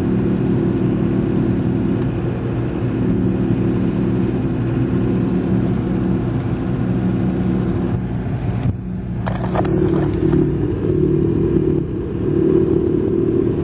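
Heard from inside the cabin of a front-wheel-drive diesel car at road speed: the engine running under a steady rumbling, growling drone like tire noise, the sound of a worn front wheel bearing. A short higher-pitched sound comes about nine seconds in, after which the low drone is a little louder.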